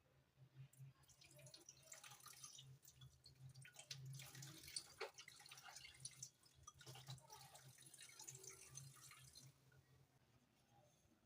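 Faint water from a tap running and splashing into a sink, with small drips and spatters, easing off near the end.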